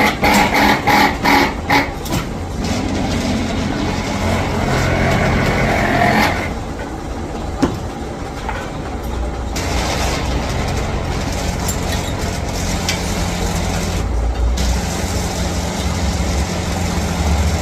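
A heavy machine's engine or motor running steadily with a low hum. In the first two seconds there are about half a dozen loud, rapid knocks.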